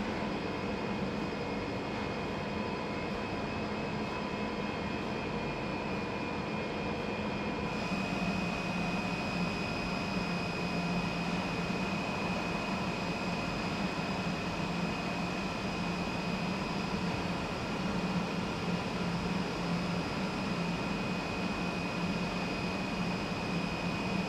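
Steady industrial machinery noise from a hot-dip galvanizing line: a continuous low hum with a high steady whine over a wash of noise. About eight seconds in the sound shifts, with the hum and the whine growing a little louder.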